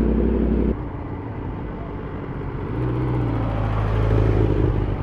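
Superbike engines running. A loud engine note stops abruptly under a second in, and another engine swells in level between about three and four and a half seconds before fading.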